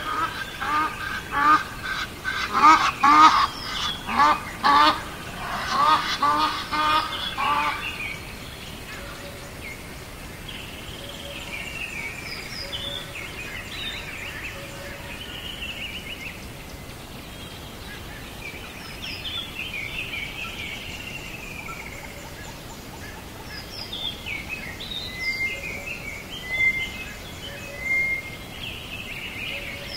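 Birds calling: a loud run of rapid, repeated pitched calls for about the first eight seconds, then quieter, higher chirping and short bird songs.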